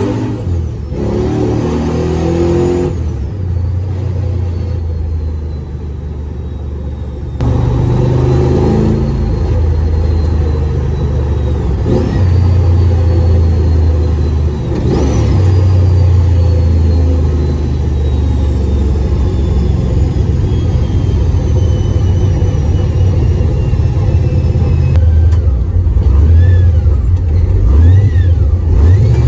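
LS V8 in a Ford XY Falcon drift car driving on the street, a deep, steady engine drone. The engine eases off for a few seconds and then builds and holds under throttle.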